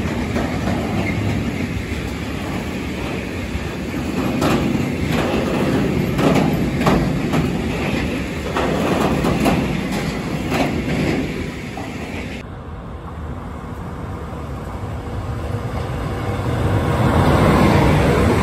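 Freight train of rail tank wagons rolling past at speed: a steady rumble with repeated sharp wheel clicks over rail joints. About twelve seconds in, the sound switches abruptly to the lower rumble of a second train, an electric locomotive with double-deck coaches, which grows louder near the end as the locomotive passes.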